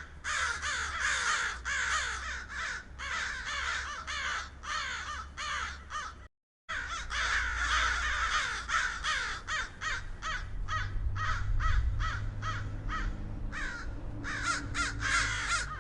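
Many crows cawing together, short harsh calls overlapping one another without pause. The sound cuts out completely for a moment about six seconds in, then resumes; a faint low hum runs underneath.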